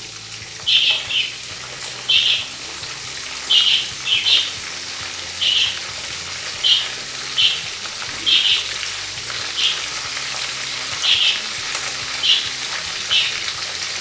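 Chicken pieces frying in hot oil in a frying pan, a steady sizzle, with the pieces being turned over in the pan. Short high chirps repeat about once a second over the sizzle.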